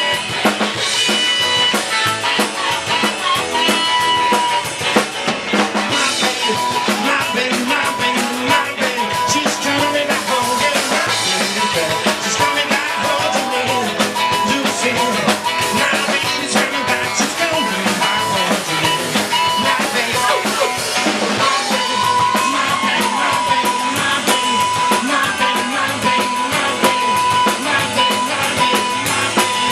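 Live rock and roll band playing, a drum kit with snare and bass drum keeping a steady beat under the other instruments.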